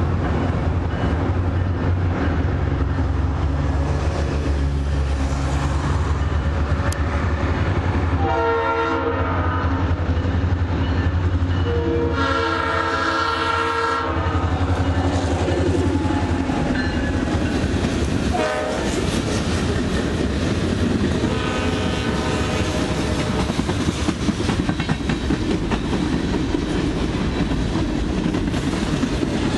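Diesel locomotive horn sounding the grade-crossing signal as a train approaches: two long blasts, a short one, then a long one, over the low rumble of the diesel engine. The train then passes close by, with wheels clacking over the rail joints.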